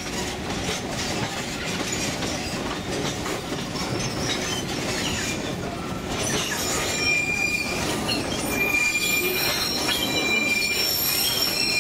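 St. Kitts Scenic Railway train running, heard from its open-sided passenger car: a steady rumble and clatter of steel wheels on the rails. From about halfway through, the wheels start squealing in high, drawn-out tones that come and go.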